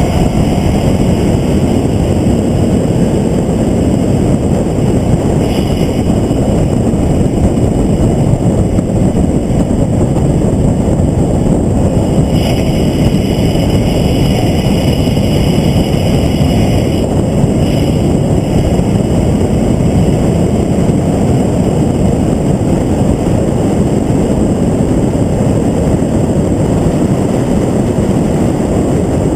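Onboard engine, wind and road noise of a car at speed on a race track. It is a steady, loud rush, with no clear rise or fall in engine pitch.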